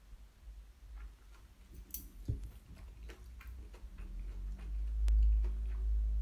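Close-miked mouth sounds of chewing black bean noodles: a run of small wet clicks, with a single thump about two seconds in and a low rumble building from about four seconds in, loudest near the end.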